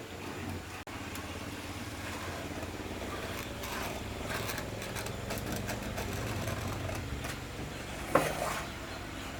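A motor runs steadily with a low hum. Scattered clicks and knocks come through the middle, and a single sharp knock falls about eight seconds in.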